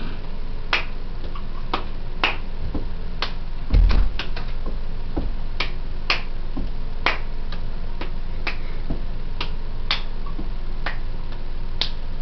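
Sharp finger snaps from a step routine, about one or two a second, unevenly spaced, with a heavy stomp-like thump about four seconds in.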